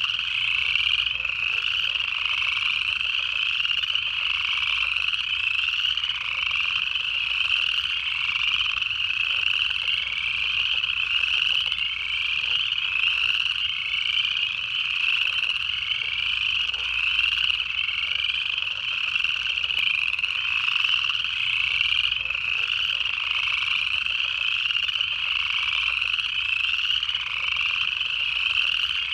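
A chorus of upland chorus frogs calling at a pond, a dense run of overlapping ascending trills, each sweeping up in pitch, repeating about once a second without a break.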